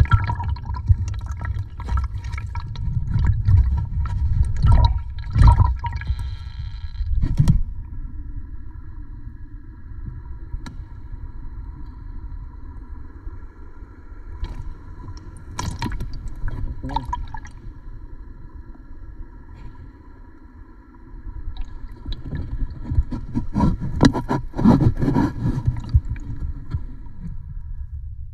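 Muffled water sloshing and gurgling with a heavy low rumble and irregular knocks, picked up by a phone filming underwater. It is busier at the start and again near the end, with a calmer stretch in between.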